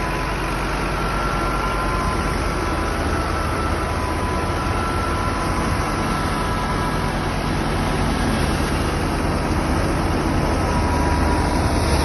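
A Fiat 640 tractor's diesel engine running steadily at a low, even pitch, a little louder in the last few seconds.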